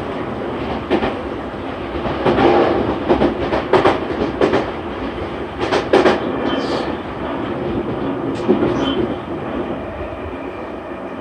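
Running noise inside a Tokyu 3020 series commuter train car: a steady rumble of wheels on rails with a run of sharp clicks as the wheels pass rail joints. The noise gets quieter near the end.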